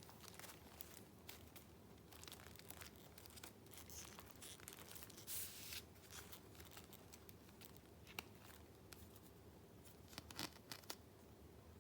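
Faint handling of paper ephemera in a junk journal: sheets rustling and crinkling with small taps. A short swish of paper about five seconds in, and a few sharper clicks near the end.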